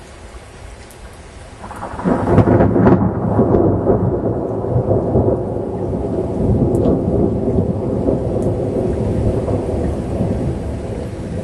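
Rain falling steadily, then about two seconds in a loud crackling thunderclap breaks out and rolls into a long, deep rumble of thunder that carries on over the rain.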